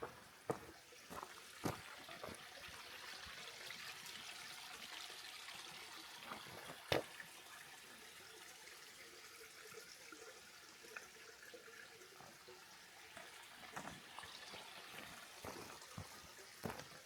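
Running water from the falls or their stream: a steady hiss. Footsteps on the path sound at the start and again near the end, with one sharp click around the middle.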